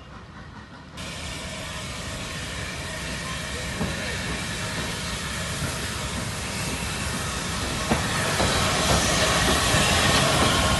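Steam locomotive hissing steam, starting abruptly about a second in and growing steadily louder, with a few faint knocks.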